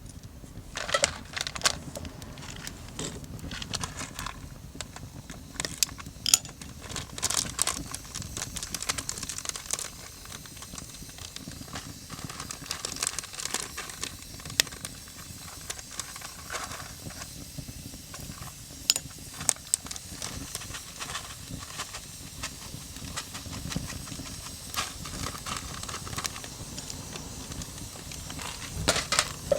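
Small wood fire crackling and hissing, with irregular sharp snaps of burning kindling.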